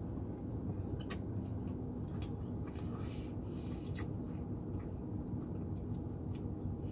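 A person biting into and chewing a soft biscuit sandwich, with quiet mouth sounds and a few faint clicks over a steady low hum.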